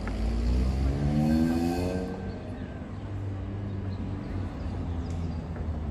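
A vehicle accelerating, its pitch rising steadily over the first two seconds, over a steady low traffic rumble.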